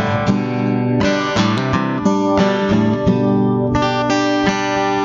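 Acoustic guitar strumming and picking a chord progression, the chords changing about once a second.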